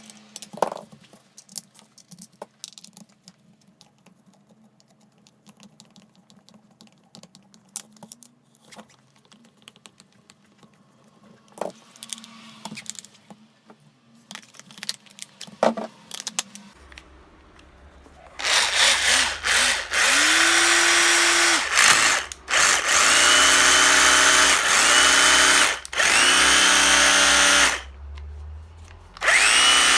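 Makita HR161D 12V cordless hammer drill's motor run in repeated bursts: several trigger pulls, each spinning up quickly with a rising whine and running one to three seconds. It is being tried out after repair. Before the runs, for most of the first half, there are only light clicks and handling sounds.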